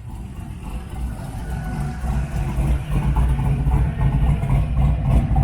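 Truck engine running, heard through its upright smokestack exhaust; it grows louder over the first couple of seconds and then holds steady.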